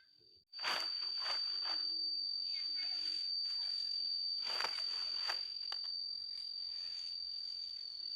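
A steady, unbroken high-pitched insect drone, starting abruptly about half a second in, with several short rustling sounds over it.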